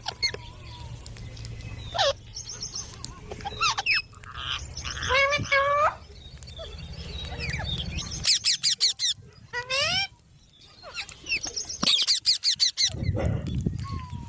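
Pet green ringneck parakeets squawking and chirping in repeated bursts of short, shrill calls, with quick rising and falling notes, over a steady low hum.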